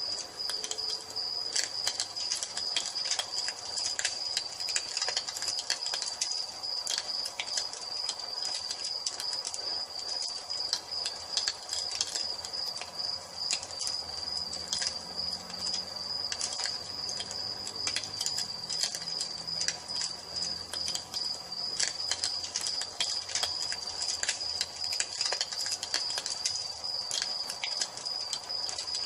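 Wood fire crackling, with frequent sharp pops, over the steady high-pitched chirring of crickets.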